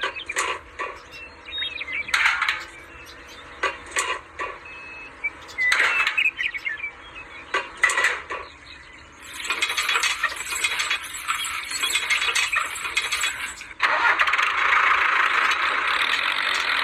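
Small motor of a DIY mini tractor: scattered clicks and knocks, then about halfway through the motor starts with a high, steady whirring, drops out for an instant and runs on louder.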